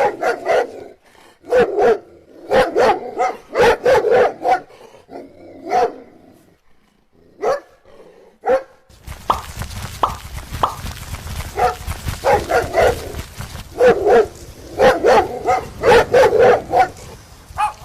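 A dog barking repeatedly in quick runs of short barks, with pauses between the runs. A steady background hiss comes in about halfway through.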